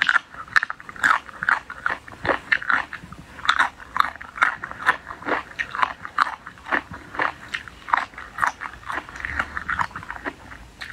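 A person chewing and biting into crunchy pieces of a spicy chicken-feet and bamboo-shoot dish, close to the microphone: irregular crisp crunches, two or three a second, with wet chewing between them.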